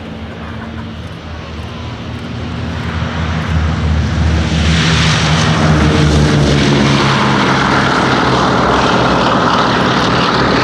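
Propeller aircraft's piston engines flying past, getting louder over the first few seconds and then staying loud. A few of the engine tones slide slightly lower as it passes.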